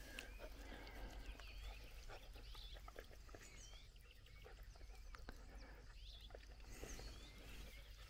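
Near silence outdoors, with faint distant birdsong of short chirps and whistles and a few light clicks.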